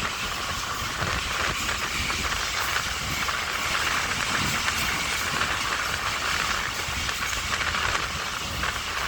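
Passenger express train running at speed: a steady rush of wheels on rails with a faint fast clatter.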